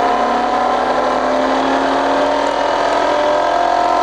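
Bridgeport turret mill's variable-speed head humming with its spindle running in high range. Its pitch climbs slowly and steadily as the speed is dialled up toward maximum.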